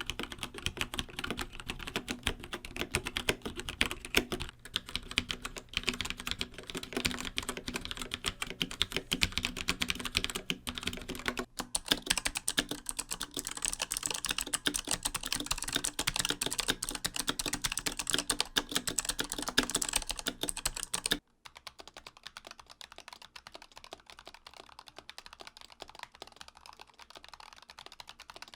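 Fast, continuous typing on a mechanical keyboard, a dense run of key clicks and bottom-outs. About three-quarters of the way through it cuts suddenly to quieter typing, the sound test of another switch.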